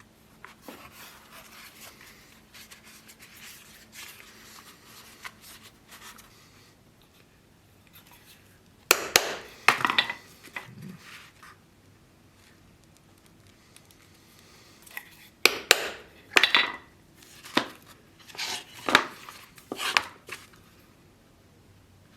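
Faint scraping for several seconds, then two clusters of sharp clattering knocks between hard objects, about eight in all, some with a brief metallic ring.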